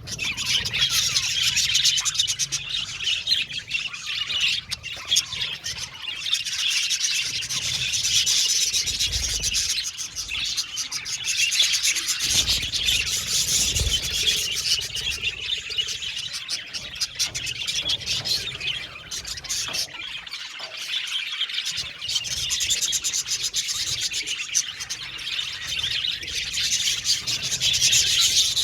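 A flock of budgerigars chattering and chirping, many birds calling over one another in a dense, continuous twitter with the odd squawk.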